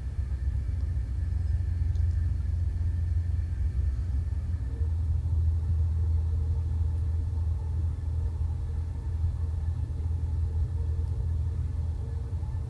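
Steady low rumble of a VR sleeper train running along the track, with a faint steady hum above it.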